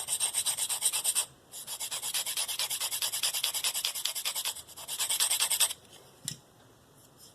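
S30V steel knife edge scraped in quick short strokes across a coarse 45-micron diamond plate (DMT Diafold): a rasping hiss in three runs with two brief pauses, stopping near the end. The edge is being worked at the heel to raise the burr there.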